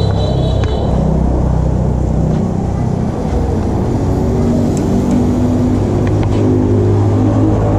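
Motor vehicle engine running close by, its pitch shifting up and down, over a steady low street rumble.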